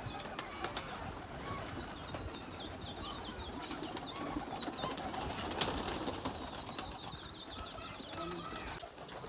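Domestic pigeons cooing, mixed with rapid high-pitched bird chirps repeating throughout and scattered sharp clicks.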